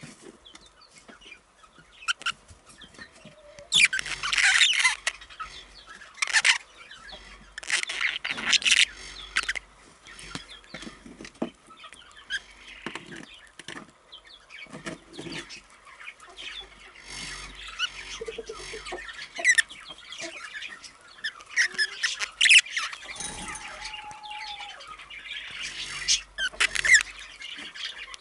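A pair of budgerigars chattering and chirping, with bursts of rapid, louder chirps every few seconds.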